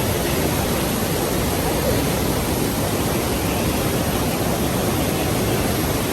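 The Rhine Falls: a large waterfall's water pouring down in a steady, even rush.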